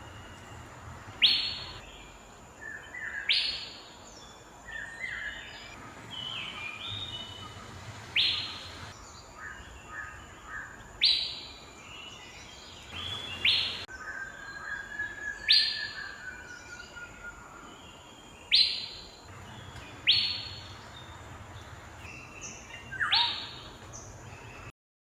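Asian fairy-bluebird calling: loud, short whistled notes repeated about every two to three seconds. Softer calls from other birds and a faint steady high tone sit underneath. The sound cuts off just before the end.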